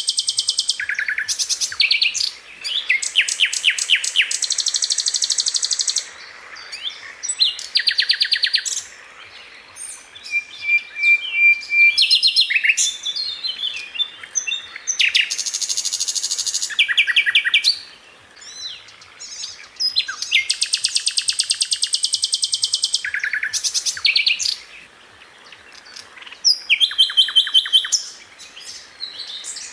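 A sikatan londo songbird singing in dense, rapid-fire trills: runs of very fast repeated high notes lasting a second or two each, broken by short pauses.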